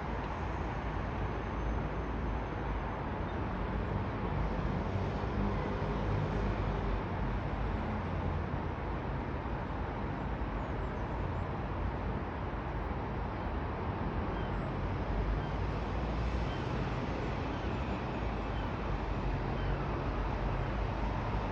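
Steady outdoor background rumble with a hiss, unchanging throughout.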